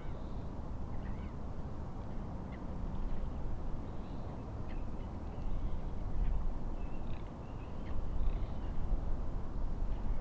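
Wind and lake waves making a steady low noise that swells louder a couple of times, with many short, high bird calls over it.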